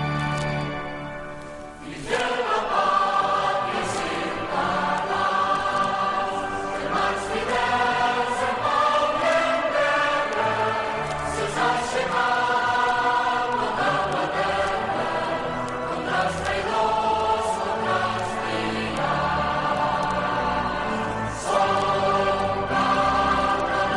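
Choral music: a held keyboard chord fades, then a choir starts singing about two seconds in and carries on in sustained phrases.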